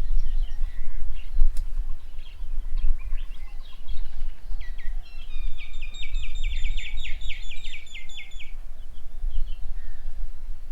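Birds chirping and calling, with a rapid run of repeated chirps, about five a second, lasting roughly four seconds through the middle, over a steady low rumble.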